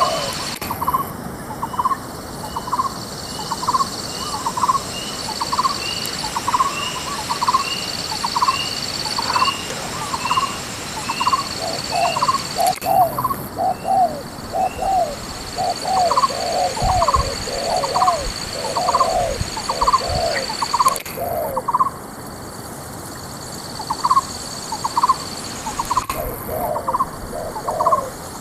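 Spotted doves cooing in short repeated notes, with a denser run of lower coos in the middle.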